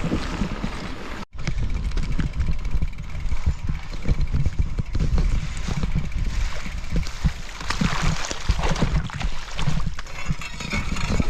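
Riding noise from a loaded gravel bike: a heavy low rumble of wind buffeting the microphone, mixed with irregular rattles and knocks from the bike over rough ground. There is a brief break about a second in.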